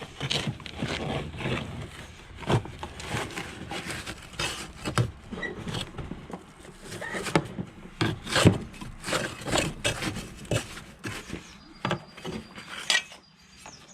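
Caked grass clippings being scraped and pulled out of the underside of a lawn mower deck: irregular scraping and rubbing with scattered short knocks.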